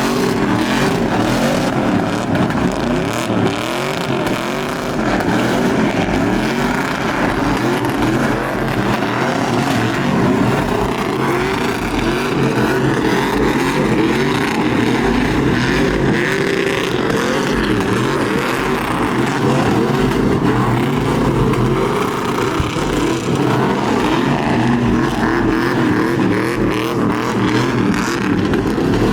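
Truck engines revving hard, their pitch rising and falling over and over.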